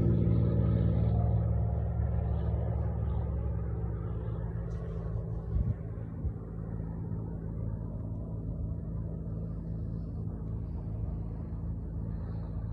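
Single-engine Cessna's 210-horsepower piston engine at takeoff power, droning loudly at first and fading over the first few seconds as the plane climbs away, then a fainter steady drone.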